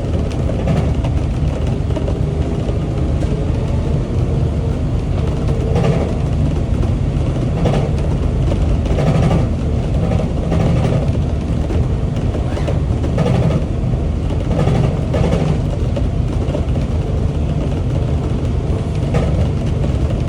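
Rubber-tyred Singapore LRT train running along its guideway, with a steady low rumble and irregular clatters every few seconds.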